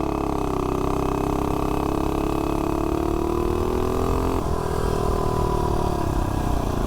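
Mini bike's Tillotson 225 single-cylinder engine, fitted with a GoPowerSports Fire 265 cam, at full throttle on a 0-to-30 acceleration run. Its pitch climbs slowly, drops abruptly about four and a half seconds in, then sinks near the end.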